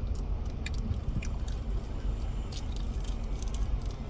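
Scattered light metallic jingling and clicks over a steady low rumble of a car.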